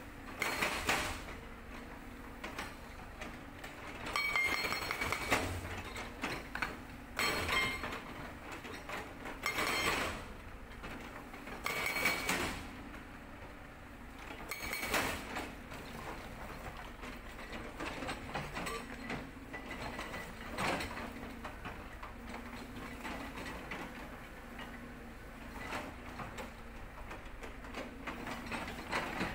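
Cat 320D excavator's diesel engine running, its pitch rising and falling with load, with short bursts of a Sangdo hydraulic breaker hammering rock about every two to three seconds in the first half. The second half has only the engine.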